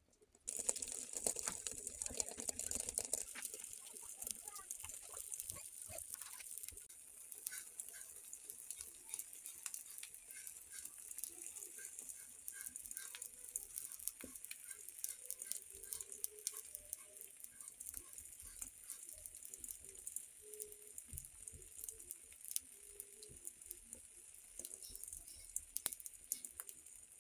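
Omelette of beaten egg with chopped onion and green chilli sizzling in a hot pan: a dense, faint crackle that starts sharply about half a second in, is busiest for the first few seconds, then settles into a steady crackle.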